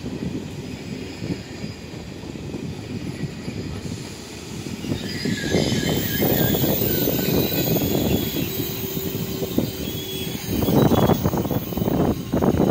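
Thalys high-speed train running past on the adjacent track: a low rolling rumble of wheels on rail that grows louder as the power car passes about five seconds in, with faint high-pitched whines over it.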